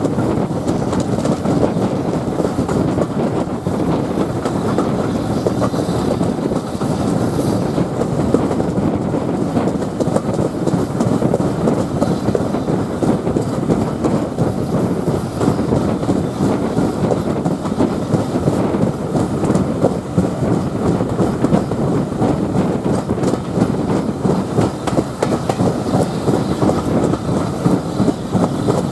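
Steam-hauled passenger train running at speed, heard from an open carriage window: a steady rumble and rush of carriage wheels on the rails, with air rushing past.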